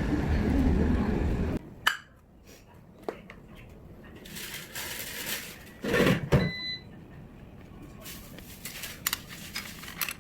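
A low rumble that cuts off suddenly, then a quieter stretch of scattered clicks and knocks of kitchenware, with a louder clatter about six seconds in and a brief high beep just after.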